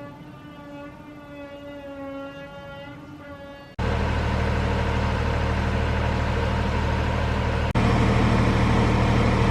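A held, wavering musical tone for about the first four seconds, then an abrupt cut to the steady low running of Class 73 locomotive 73130's diesel engine, which steps up louder at a second cut near the end.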